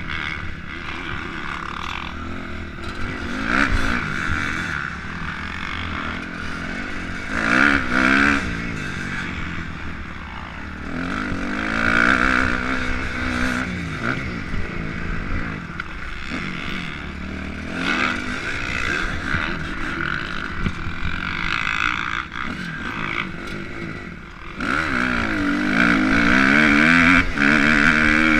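Motocross dirt bike engine being ridden hard, revving up and easing off again and again, its pitch rising and falling with each surge. It opens up and stays loudest for the last few seconds.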